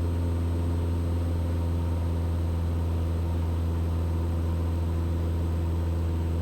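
Mooney M20E's four-cylinder Lycoming IO-360 engine and propeller running steadily at climb power, heard as a constant low drone in the cabin.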